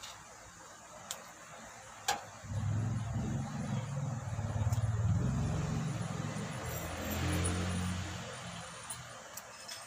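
A motor vehicle's engine passing by, its low hum rising and then fading over about six seconds, after a single knock about two seconds in.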